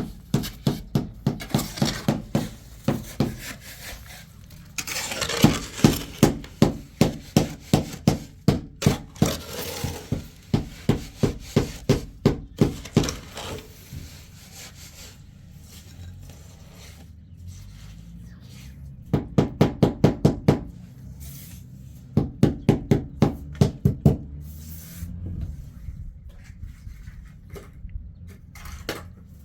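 Repeated sharp knocks on wood, about two to three a second, coming in several bouts with short pauses between them, like chopping or pounding on a wooden board.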